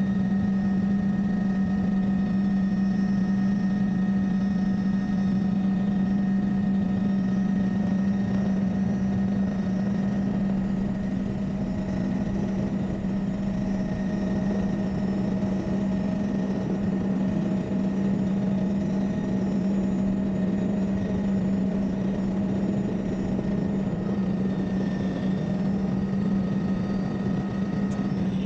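Helicopter running with a loud, steady drone and a strong constant hum, unchanging throughout.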